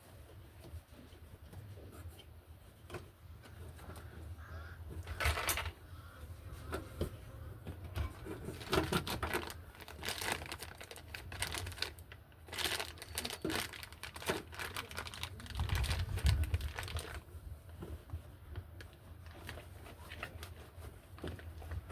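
Irregular clicks, taps and rustles of hands handling parts and tools, busiest in the middle stretch, over a steady low hum.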